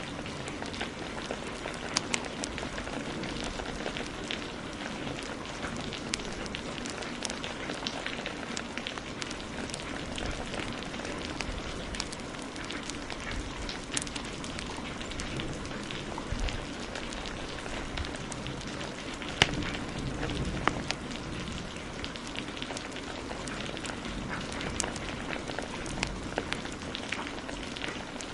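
Steady heavy rain hiss with a wood fire crackling over it in scattered sharp pops, one pop louder than the rest about two-thirds of the way through.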